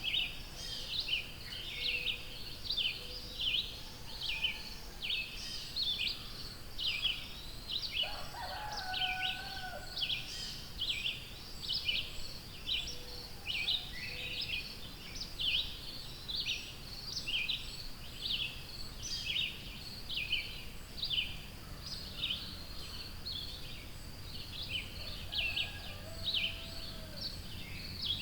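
Birds in woodland singing, one song of quick, high, repeated chirps, a few per second, running on without a break. Now and then a lower whistled note from another bird sounds underneath, around nine seconds in and again near the end.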